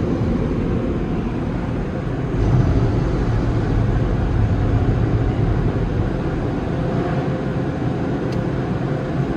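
Tunnel car wash equipment running, a steady low rushing noise heard from inside the car.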